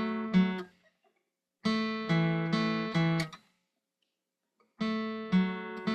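Acoustic guitar in standard tuning strummed with only the third and fourth strings fretted and the other strings ringing open. The strums come in three groups with short silent pauses between them: two at the start, a run of about five in the middle, and three more near the end.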